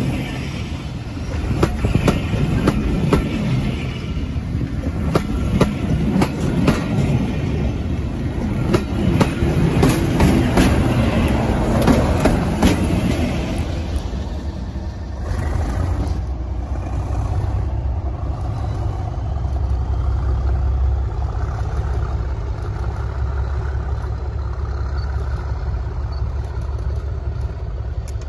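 Train coaches passing close by, their wheels clattering over the rail joints. After about fourteen seconds the clatter dies away, leaving a steady low rumble.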